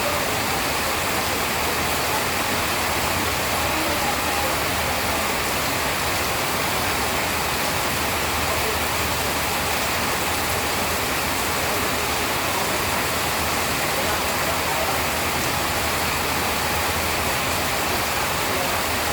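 Steady rain, an even rushing hiss that holds constant throughout.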